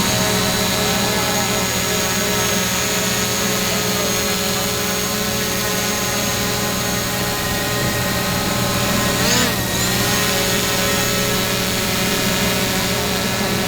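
Steady machine hum made of several steady tones, with a brief swooping tone about nine and a half seconds in.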